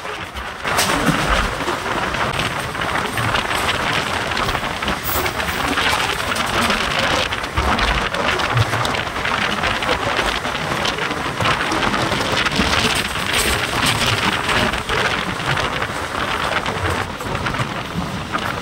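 MEMU electric train running at speed, heard from on board: a loud, steady rush of wheels on rails and wind, with crackling rattle throughout.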